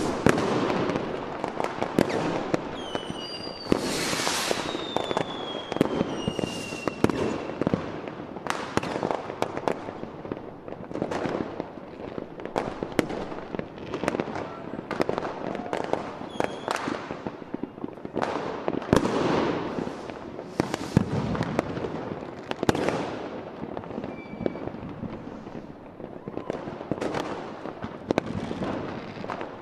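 Fireworks display: a continuous run of bangs and crackling shell bursts, with whistling rockets falling in pitch a few seconds in.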